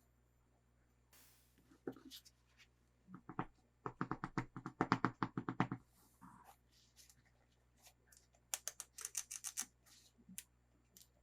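Hands handling toy packaging: scattered scratches and clicks, then a quick run of rapid, even clicks lasting about two seconds, and later a shorter run of sharper clicks.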